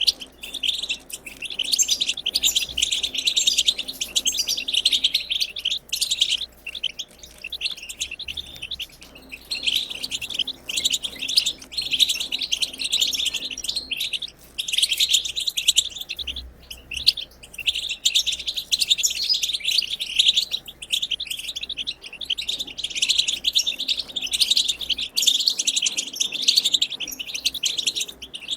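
European goldfinch giving its fast twittering chatter (the 'batbata'), a continuous run of quick high chirps broken only by short pauses.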